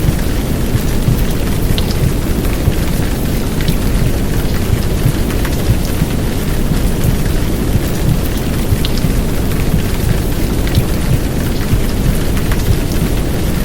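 Steady heavy downpour of rain with a deep rumbling wash underneath from a simulated womb sound, blended into a continuous white-noise bed. Scattered sharp drop ticks sound over the top.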